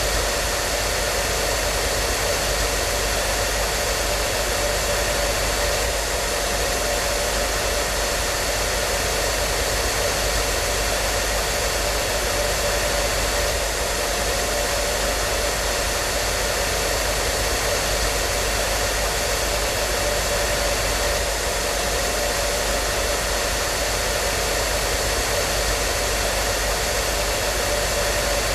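Hair dryer running continuously: a steady rushing blow of air with a constant motor hum and whine, unchanging throughout.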